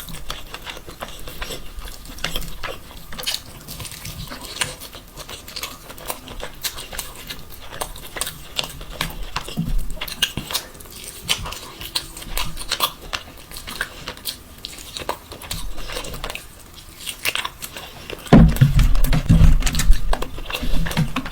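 Close-miked eating of mutton mandi: wet chewing, biting and lip-smacking in a run of quick sharp clicks, growing louder and fuller in the last few seconds.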